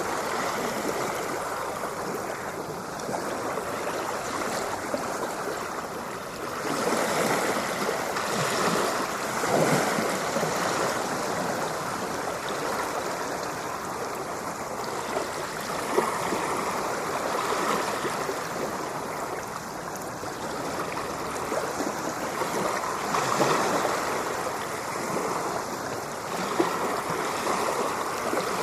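Ocean waves washing ashore in a steady wash of surf, swelling and easing every few seconds.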